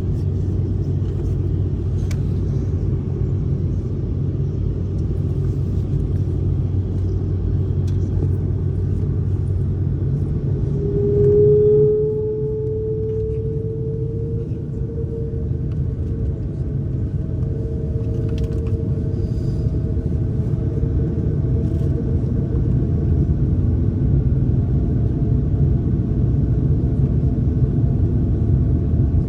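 Steady low rumble of an airliner heard from inside the cabin while it is still on the ground before takeoff. About eleven seconds in, a whine comes in and rises slowly in pitch.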